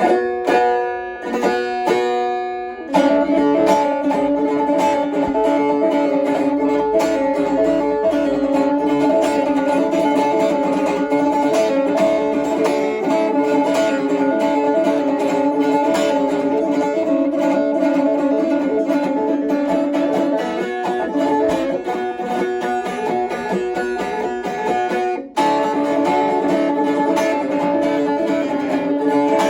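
Double-necked doğaç, a plucked string instrument, being played: a few separate plucked notes at first, then fast continuous picking over ringing drone strings. The playing breaks off briefly near the end and then starts again.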